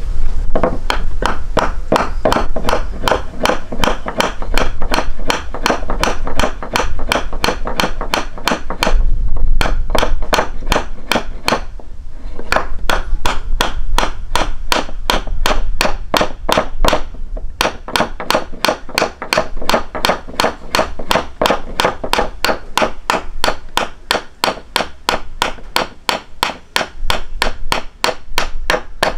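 Steady, even knocking or tapping, about three and a half sharp strikes a second, kept up without a break.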